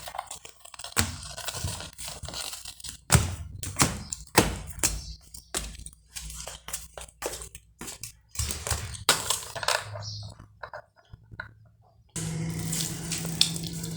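Plastic toy vehicles being handled: a run of knocks, clatters and scrapes, with a steady low hum coming in near the end.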